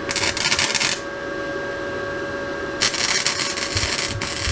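A power tool whines steadily while working on the exhaust pipe. Two stretches of harsh grinding hiss come through, one at the start and a longer one about three seconds in.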